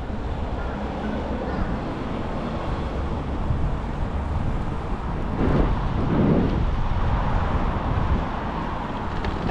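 Wind rushing over the microphone of a moving bicycle, a steady low rumble with two louder swells about halfway through.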